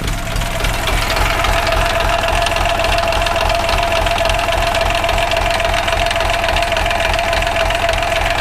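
A minitractor's three-cylinder diesel running at idle with an even beat. Under it is a faint metallic knock that the owner traces to the first cylinder; he suspects the block, a cylinder liner or the bearing shells.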